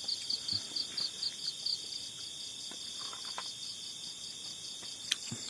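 Night insects, crickets, calling: a steady high trill with a high pulsing chirp about four or five times a second over it, the pulsing dying away about two seconds in. A single sharp click about five seconds in.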